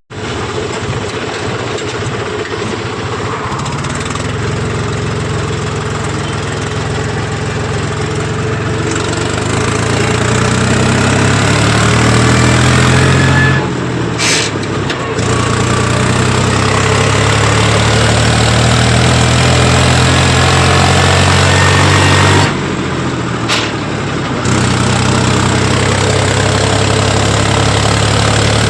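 Tractor's diesel engine running under the load of a trailer full of paddy sacks. Its note climbs, dips sharply about 14 and 23 seconds in, then picks up again and holds steady.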